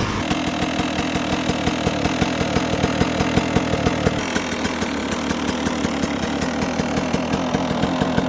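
KTM dirt bike engine idling steadily, its exhaust beating in a rapid, even rhythm after being warmed up.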